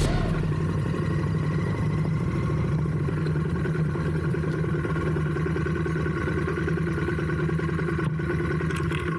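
Royal Enfield motorcycle engine running at a steady, even speed.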